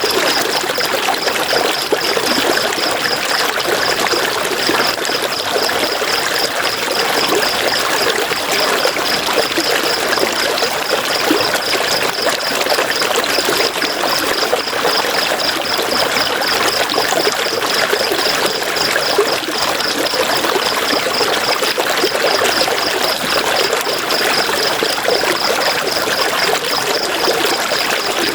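River water flowing over stones in an even, unbroken rush. A high, rapidly pulsing chirp runs through it, pausing briefly now and then.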